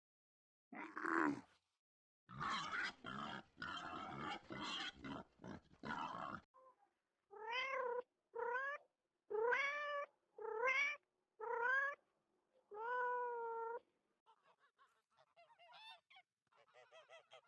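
A domestic cat meowing six times, each meow rising then falling in pitch and the last one longer, after a quick series of rough grunting animal calls. Faint honking begins near the end.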